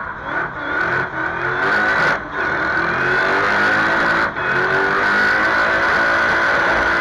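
Supercharged 4.2-litre Audi V8 (ABZ) with an Eaton TVS 1900 supercharger, in a rear-wheel-drive Audi A4 B5 drift car, heard onboard, accelerating hard with the revs climbing. There are two brief breaks, about two and four seconds in, like gear changes.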